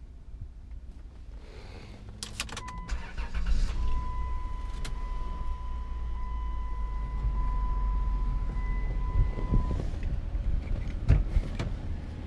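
2004 Chrysler Town and Country minivan's V6 engine starting after a few clicks about two seconds in, then running at idle. A steady high-pitched tone sounds over it for about seven seconds, and a couple of knocks come near the end.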